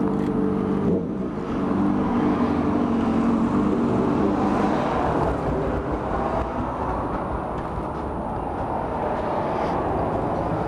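A sport bike's engine running at low revs with a steady tone, which fades out about five seconds in, leaving a low engine rumble.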